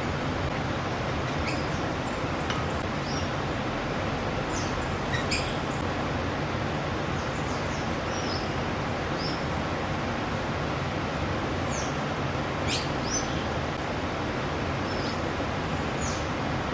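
Wild birds giving short, high chirps, scattered irregularly about one every second or so, over a steady background hiss and rumble.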